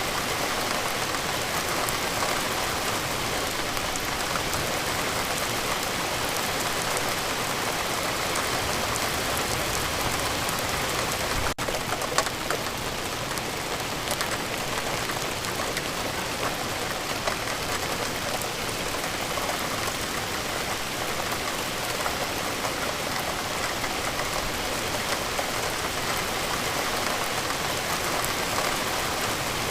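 Steady rain falling, a continuous even hiss with scattered individual drops ticking, and a momentary break about twelve seconds in.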